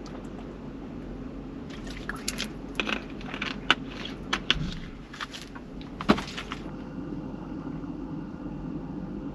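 A run of clicks and knocks, as of objects being handled, over a steady low hum; two sharp clicks stand out, about a third and two thirds of the way in.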